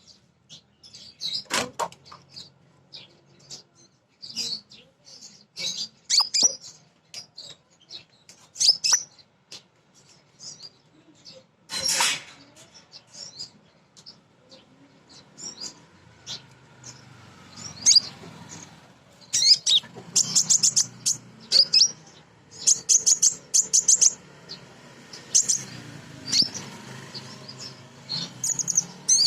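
Female kolibri ninja sunbird calling: short, sharp high chirps, with quick rattling runs of chirps in the second half, the kind of call a female gives to draw in males. A sharp click sounds about twelve seconds in.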